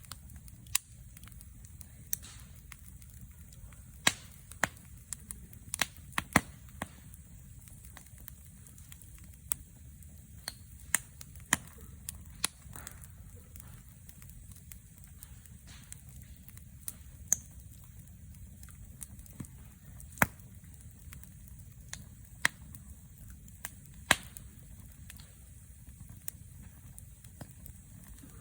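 Wood fire burning and crackling, with sharp, irregular pops about once a second over a low steady rumble.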